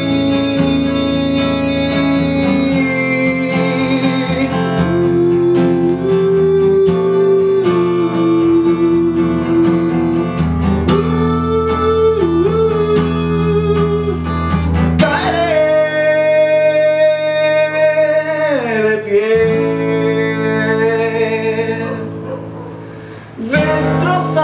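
Live song performance: an acoustic guitar strummed, with a singing voice holding long notes over it. About three-quarters of the way through, one held note slides down in pitch. The sound then dips briefly before guitar and voice come back in just before the end.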